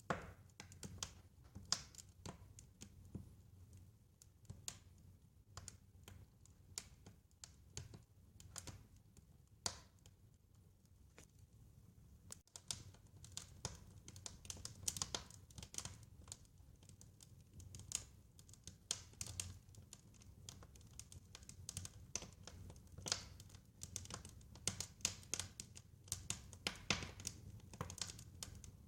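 Wood fire crackling in a fireplace: irregular sharp pops and snaps over a low steady rumble, the pops coming thicker in the second half.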